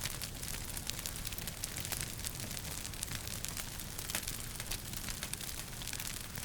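Wood fire crackling in a fireplace, with frequent small sharp pops and snaps over a steady low rumble of the flames.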